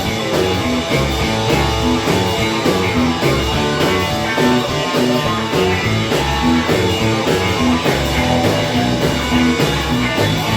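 Rock and roll band playing an instrumental passage between verses, with guitar over a steady drum beat.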